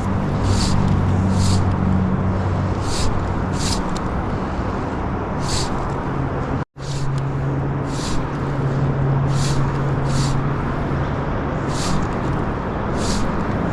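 Steady rushing outdoor noise with a low hum beneath it and short hissy swishes every second or so. The sound cuts out for an instant about halfway through.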